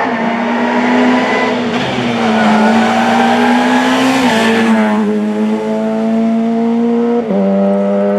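Rally car accelerating hard along the stage, its engine pitch climbing and then dropping sharply at each upshift, twice plainly, about halfway and near the end. A rush of noise comes just before the first of these drops as the car comes closest.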